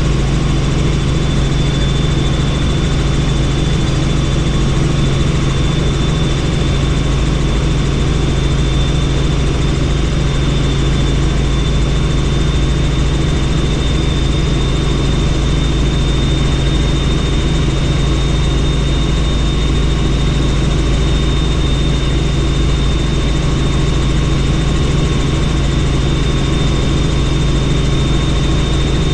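Helicopter in flight: steady, loud rotor and engine noise with a thin constant high whine, unchanging throughout.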